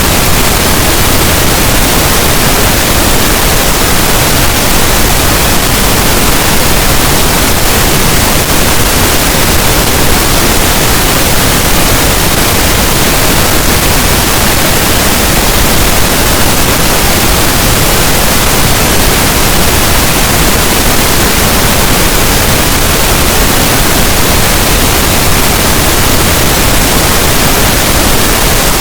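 Continuous pink noise: a steady, even hiss with no change in level, used as masking sound for sleep.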